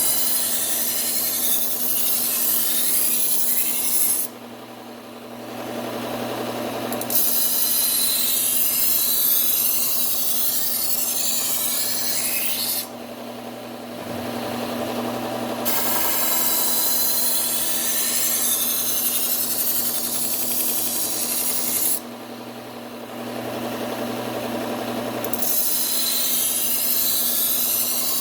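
Bucktool low-speed belt sander running a P120 Cubitron belt, with a Wusthof kitchen knife edge drawn across it in the first, edge-apexing grit: a hissing grind of steel on the abrasive in four long passes over the sander's steady hum. The grind drops out three times for a few seconds, leaving only the motor.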